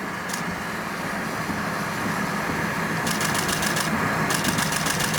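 Steady road and engine hum inside a moving car, joined about three seconds in by a rapid, even ticking of about ten a second that breaks off briefly and starts again.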